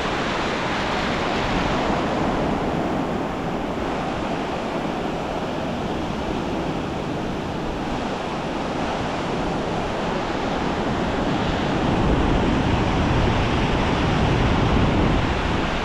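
Ocean surf washing onto the beach, a steady rush that swells and eases, with wind buffeting the microphone and growing louder near the end.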